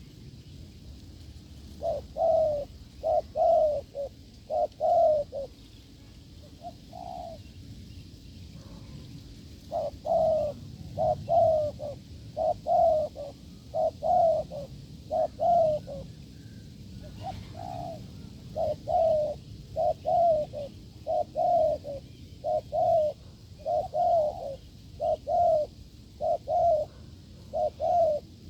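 Spotted dove cooing (the display coo called "gù" by keepers): runs of short, low, repeated coos in bouts, starting about two seconds in, pausing for a few seconds, then carrying on almost without a break.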